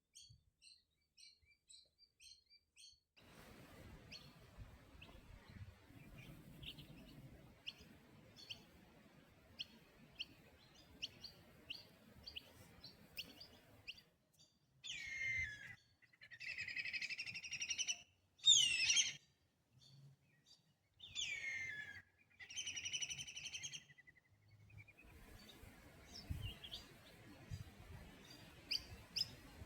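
Wild birds calling: many short, high chirps, then a run of about five louder, longer calls, several of them sweeping downward in pitch, in the middle before the small chirping returns.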